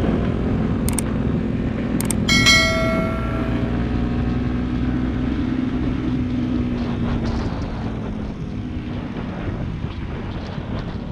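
Motorcycle engine running steadily under way, easing off a little in the last few seconds. About two seconds in comes a single sharp metallic ring that dies away over a second or so.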